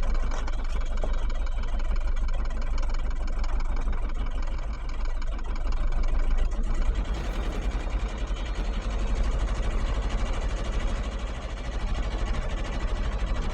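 Small marine diesel inboard engine of a Catalina 30 sailboat idling steadily with a fast, even low rumble, just after a glow-plug cold start.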